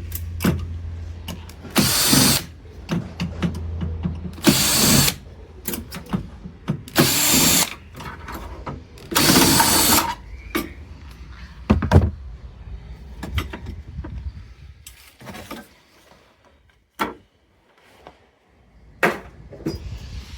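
Power drill running in four short bursts, backing screws out of a hot water heater's casing. Scattered clicks and knocks follow as the parts are handled.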